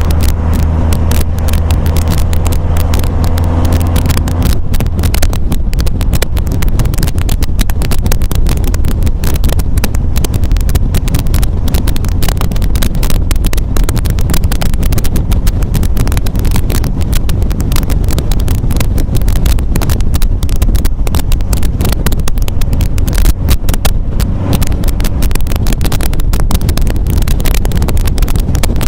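MGA roadster's four-cylinder engine running steadily on the road, with heavy wind buffeting on the microphone of the open car.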